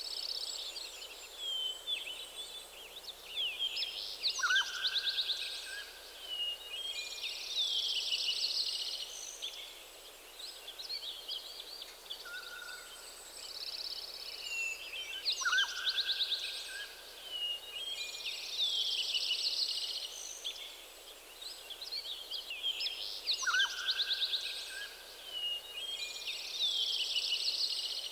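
Several songbirds singing at once in a morning chorus, overlapping high trills and chirps. A lower whistled call comes in three times, about every eight to eleven seconds.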